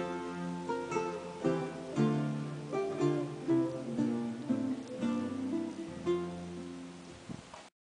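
Acoustic guitar music, with notes and chords struck about twice a second. It stops abruptly near the end.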